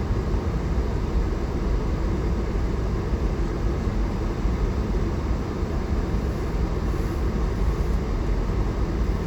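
Steady low engine and tyre rumble inside the cabin of a four-wheel-drive vehicle driving along a snowy road.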